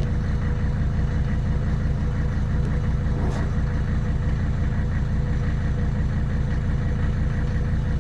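Old Mercedes-Benz five-cylinder diesel engine idling steadily, with an even low pulsing clatter.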